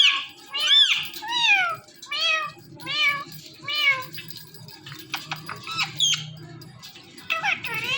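Indian ringneck parrot mimicking a cat's meow: a quick string of about six rising-and-falling meows, followed by a few sharper squawks and short chirps near the end.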